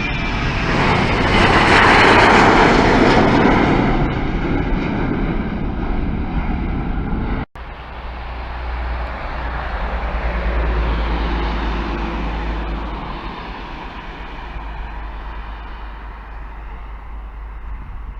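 Airliner engines passing close by: a loud rushing noise with a whine that peaks about two seconds in and then fades. After an abrupt cut about seven seconds in, a second, gentler swell of aircraft noise rises and dies away.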